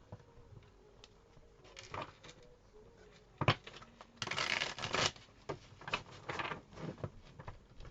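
Tarot cards being shuffled and handled: scattered slaps and taps of cards, with a dense burst of shuffling about four seconds in that lasts about a second.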